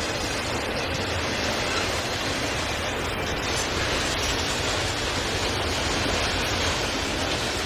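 Freight train rolling past, a steady, even rushing noise of wheels on rail without distinct wheel clicks.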